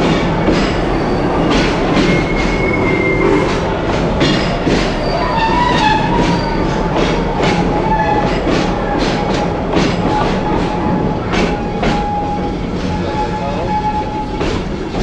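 Serengeti Express train rolling along its track: a steady rumble with many sharp clicks from the wheels over the rails. A thin wheel squeal sets in about five seconds in and holds for most of the rest.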